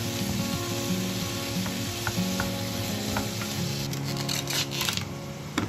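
Diced vegetables sizzling as they are stirred in a frying pan with a wooden spatula. About four seconds in, a brief burst of rustling, and a sharp knock just before the end.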